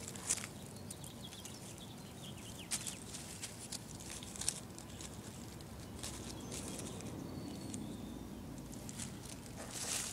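Faint outdoor background with scattered light rustles and clicks, the loudest about a quarter second, two and three-quarter seconds and four and a half seconds in.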